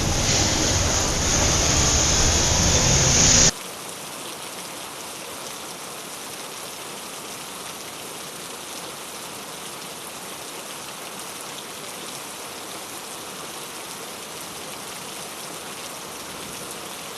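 Steady rain on a wet city street. The first few seconds are louder, with a low rumble beneath the rain. The sound then cuts off abruptly, about three and a half seconds in, to a quieter, even rain hiss.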